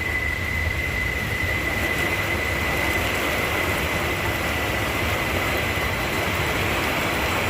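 Steady rain falling, an even hiss, with a thin constant high whine running through it.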